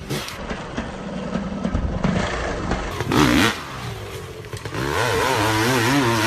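Honda CR500 single-cylinder two-stroke engine revving. There is a short sharp rev about three seconds in, and the pitch wavers up and down near the end as the throttle is worked.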